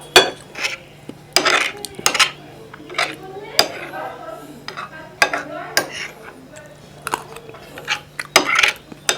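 Eating sounds: a spoon clinking and scraping against a dish in a dozen or so sharp strokes, with wet mouth sounds of chewing soft sweets between them.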